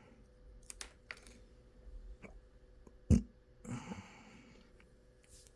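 Small clicks and taps of computer hardware being handled, with one louder knock about three seconds in and a brief scrape just after it.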